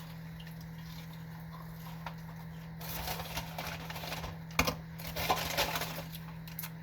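Takeout food packaging being handled: rustling and crinkling of paper and plastic with a few sharp clicks, starting about three seconds in and stopping about a second before the end, over a steady low electrical hum.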